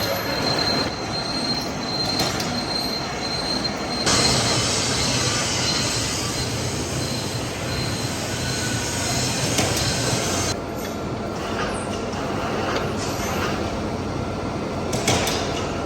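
Lathe cutting a large steel shaft: steady grinding metal-cutting noise with a thin high squeal for the first few seconds. The sound changes abruptly twice, about four seconds in and again about ten seconds in.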